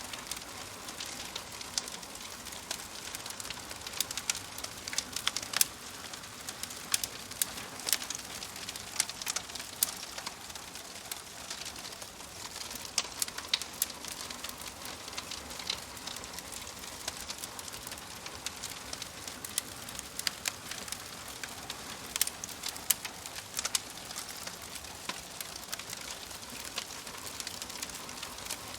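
Fire crackling: irregular sharp pops and snaps over a steady soft hiss.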